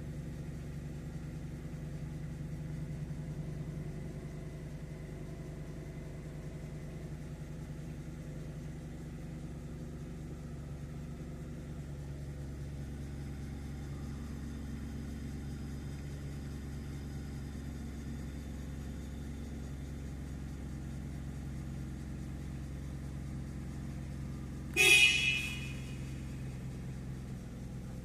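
1991 Mitsubishi 3000GT VR4's twin-turbo 3.0-litre V6 idling steadily just after a cold start, its idle note dropping slightly about halfway through. Near the end the car's horn sounds once, briefly and loudly.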